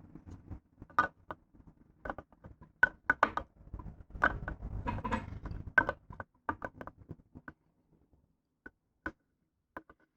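Irregular metallic clicks, clinks and knocks of tools and engine parts being handled during engine assembly, several a second through the first half with some scraping, thinning to a few isolated clicks near the end.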